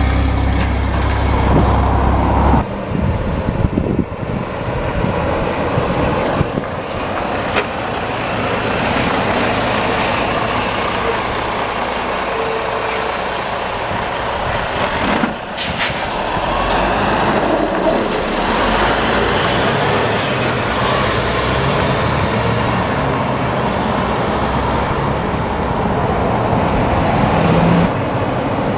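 Heavy coal-hauling dump trucks with quad-axle trailers passing on the road: diesel engine drone and tyre noise. A loud low engine note cuts off about two and a half seconds in, and the road noise carries on steadily after it.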